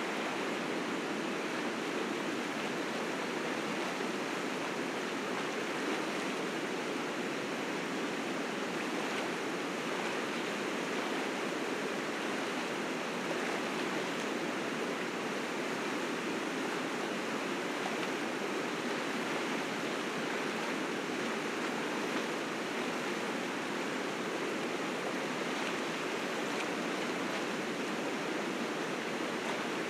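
River rapids rushing, a steady roar of fast water swollen with spring snowmelt.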